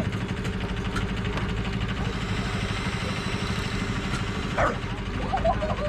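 Engine idling steadily with an even, rapid beat.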